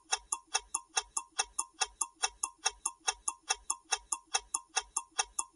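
Countdown-timer sound effect: a clock ticking quickly and evenly, about five ticks a second, marking the time left to answer a quiz question.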